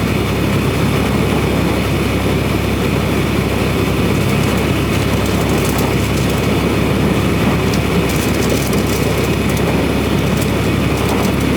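Semi truck driving, heard from inside the cab: a steady drone of the diesel engine and road noise.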